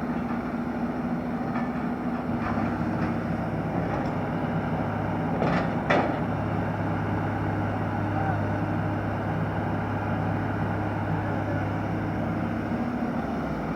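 Excavator's diesel engine running steadily, its hum settling to a new steady pitch about two seconds in. Two sharp metallic knocks come a half second apart around the middle.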